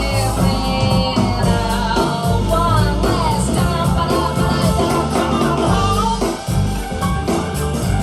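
A song with a singer and a full band, played back at a high level through a stereo pair of Tannoy Platinum B6 speakers with a subwoofer, heard in the room.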